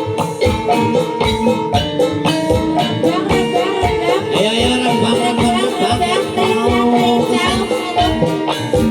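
Live jaranan dangdut music: a steady drumbeat under melodic instruments playing continuously.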